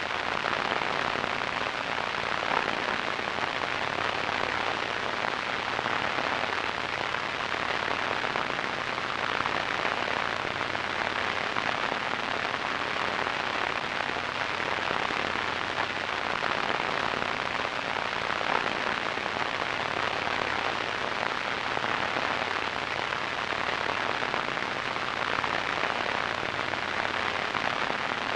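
Steady radio static: an even hiss centred in the middle frequencies, with a faint crackle and no tones or breaks.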